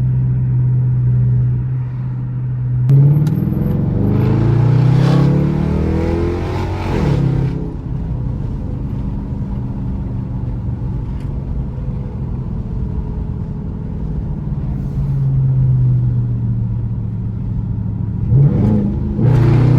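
Dodge Charger engine through a Hellcat exhaust, heard inside the cabin: running at a steady cruise, then pulling hard about three seconds in with the pitch climbing through a couple of gears, easing back to a steady cruise, and climbing again near the end.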